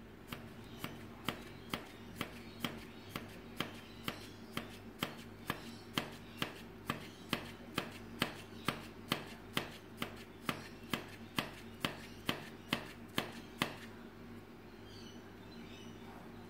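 Homgeek coffee maker clicking over and over, about two sharp clicks a second above a steady low hum, until the clicks stop near the end. The machine is faulty and not working.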